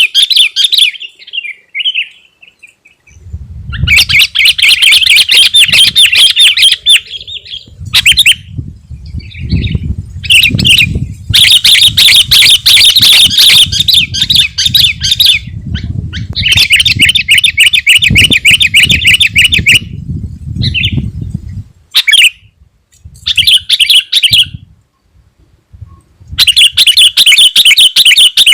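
Sooty-headed bulbul singing loudly in fast, chattering bursts of a few seconds each, broken by short pauses.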